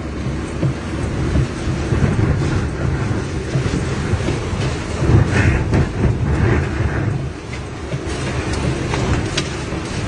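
Strong tornado wind roaring and buffeting the microphone, a dense low rumble like a passing freight train.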